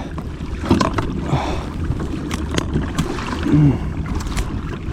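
Irregular knocks and clicks of fish and gear being handled in a kayak over a steady low rumble of wind and water, with a short grunt about three and a half seconds in.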